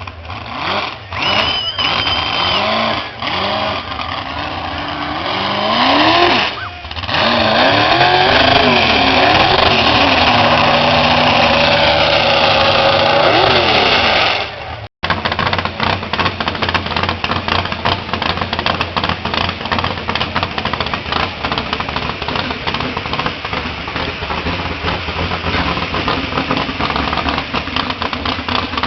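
Big-block V8 of a giant Ford mud truck revving hard, its engine note rising and falling again and again. After a sudden cut about halfway through, the engine runs steadily at high revs with a rapid crackling exhaust.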